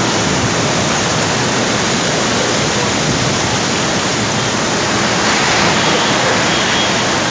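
Storm wind blowing hard, a loud steady rushing noise.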